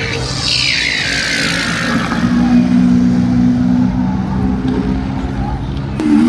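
Tractor engine revving hard. Its pitch falls away in the first two seconds, then it holds at high, steady revs. A sudden jump to a higher pitch comes near the end.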